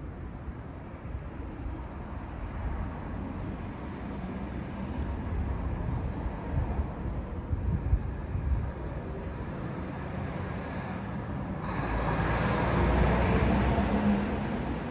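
Low rumble of a passing vehicle, which swells louder for a couple of seconds near the end.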